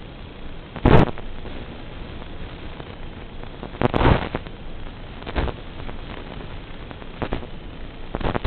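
Wind rushing steadily over the microphone of a flying RC wing, broken by about five sharp blasts of wind buffeting. The loudest blast comes about a second in and another near four seconds.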